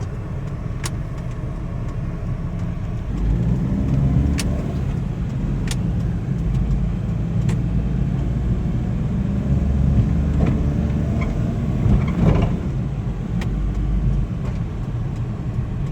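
Suzuki Carry mini truck's 660cc three-cylinder engine and road rumble heard from inside the cab while driving, the engine note rising as it speeds up about three seconds in and again near twelve seconds, with a few light clicks or rattles along the way.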